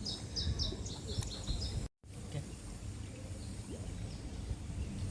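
A small bird chirping, a quick run of short high notes during the first second and a half, over low steady outdoor background noise. The sound cuts out completely for a moment about two seconds in.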